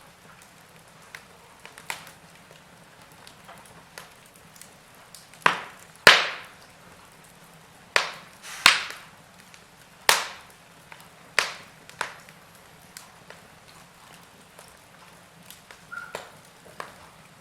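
Logs burning in a fireplace, crackling with scattered sharp pops and snaps, the loudest cluster of pops about a third of the way in and through the middle.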